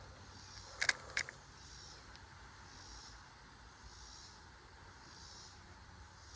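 Quiet creekside background: two short clicks about a second in, then a faint, soft high-pitched pulsing that repeats about once a second.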